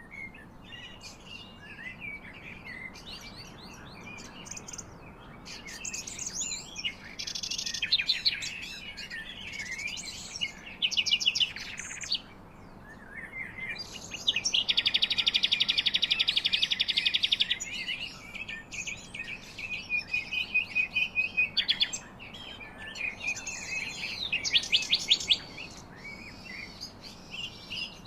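Several songbirds chirping and singing in overlapping short calls. A long, rapid trill of about three seconds is the loudest call, near the middle.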